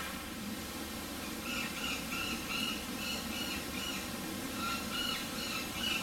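A bird calling in a run of short, repeated notes, about two a second, starting about a second and a half in, over the steady splashing of a pond fountain.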